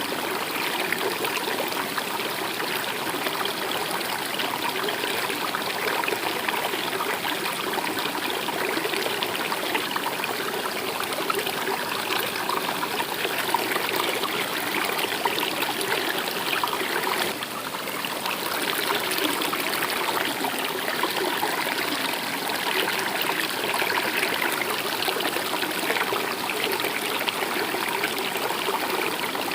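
Stream water running with a steady trickle and babble.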